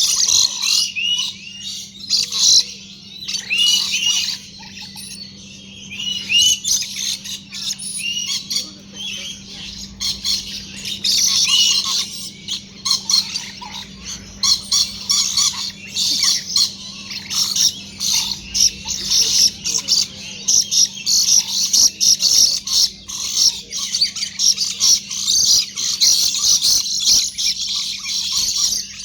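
A flock of parrots chattering and squawking: many short, high calls overlapping, growing denser and near-continuous from about a third of the way in. A steady low hum runs underneath.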